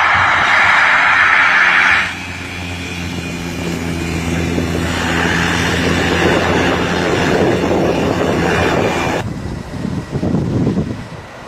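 Propeller engine of a low-flying agricultural spreading plane. A loud rush for about two seconds gives way abruptly to a steady engine hum, which breaks off near the end into gusty noise.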